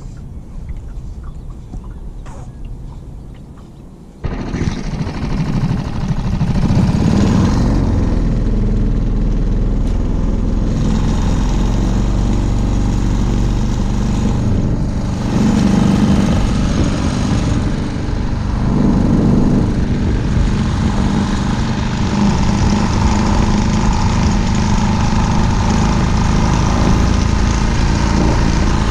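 A boat's motor starts abruptly about four seconds in and runs steadily under way, its pitch shifting a little with the throttle; before it there is only wind and water.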